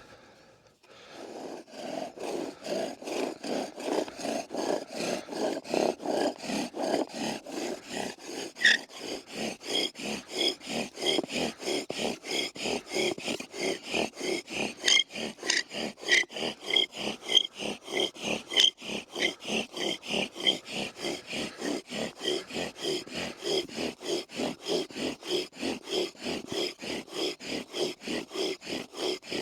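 Bow drill at work: a wooden spindle grinding in a hearth board under fast, even back-and-forth bow strokes, about three a second, with a high squeak on many strokes. It starts about a second in.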